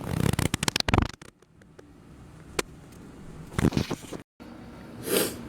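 Handling noises: a quick run of clicks and rustles in the first second, a single click about halfway, and another short run of clicks a little before the end.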